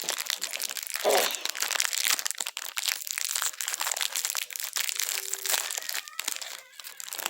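Dense, close crinkling and crunching as a packaged cream-filled sandwich cookie is handled and eaten near the microphone, with a louder crackle about a second in.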